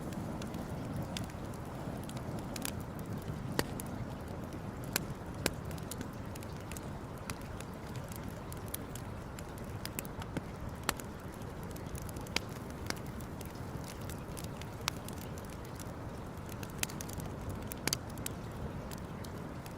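Campfire burning, crackling with irregular sharp pops over a steady low rushing noise.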